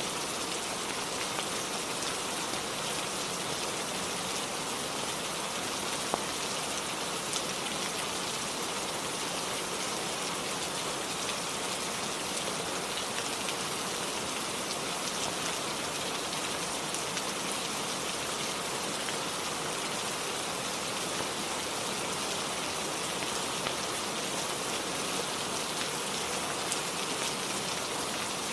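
Steady rain falling on a roof, an even hiss of drops, with a few brief clicks scattered through.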